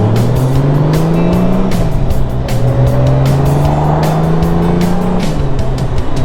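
Motorcycle engine accelerating through the gears: its pitch climbs, drops at a shift about two seconds in, climbs again and drops at another shift near the end. Music with a beat plays over it.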